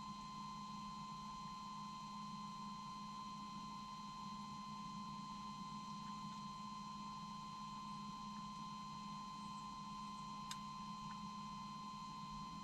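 Faint, perfectly steady high tone with a low hum beneath it, and a single click near the end.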